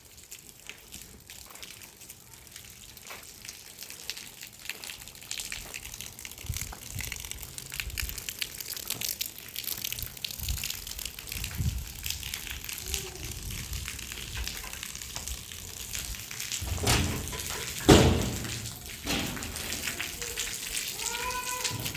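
Water splashing and pouring, with scattered clatter and knocks from handling things. There is one loud knock about three quarters of the way through, and a brief voice near the end.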